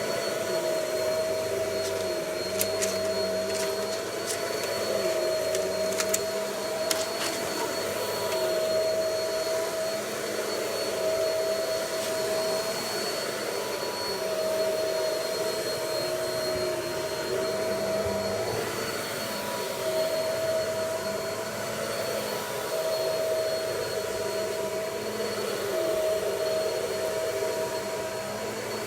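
Vacuum cleaner running steadily as it sucks cornstarch out of carpet, its motor note wavering slightly with the strokes. A few sharp clicks come in the first several seconds.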